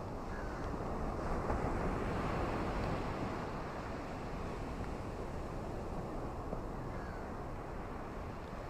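Ocean surf washing on a beach: a steady rushing that swells about a second in and eases back after a few seconds.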